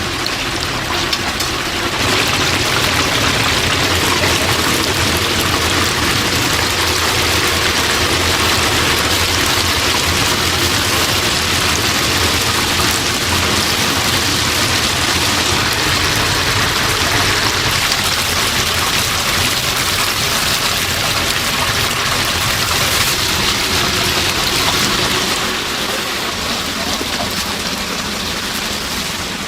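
Chicken deep-frying in hot oil: a loud, steady sizzle of bubbling oil. It grows louder about two seconds in and eases a little near the end.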